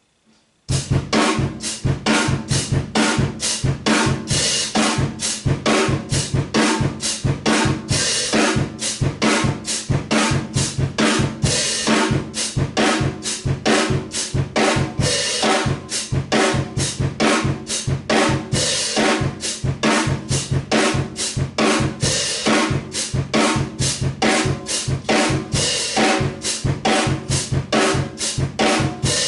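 Acoustic drum kit playing a simple steady beat on hi-hat, snare and bass drum, starting just under a second in.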